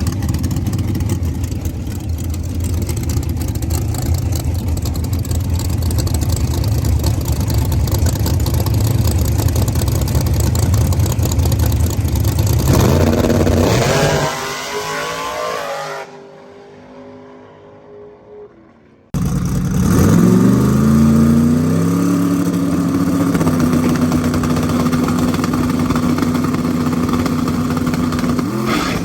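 Small-block V8 drag car engine running hard, a dense steady engine sound for about thirteen seconds, then a rising pitch that breaks off and dies away. After a sudden start, an engine climbs in pitch and holds a steady high note.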